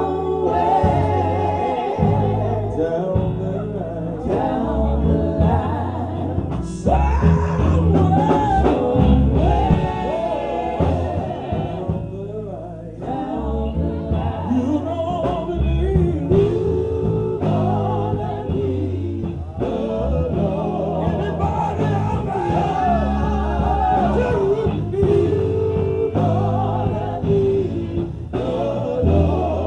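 Live gospel song: a singer's voice, with long held and bending notes, over steady instrumental backing.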